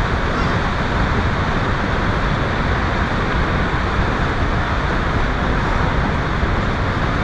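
The 268-foot Snoqualmie Falls heard as a steady, unbroken rush of falling water.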